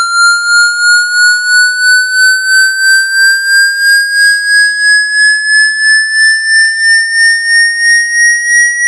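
Synthetic speaker-cleaning tone meant to shake water out of a phone, slowly rising in pitch while pulsing in loudness about two and a half times a second.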